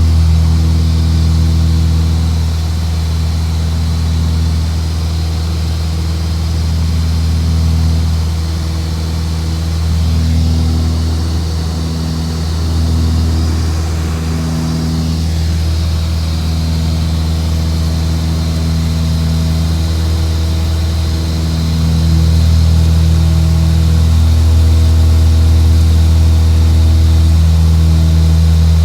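Aircraft engine running steadily in flight: a constant low drone with evenly spaced tones that shift slightly in level, and a hiss above it.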